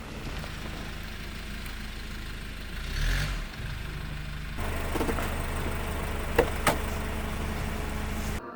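Vehicle engine running with a steady low hum, with two sharp clicks late on; the sound cuts off abruptly near the end.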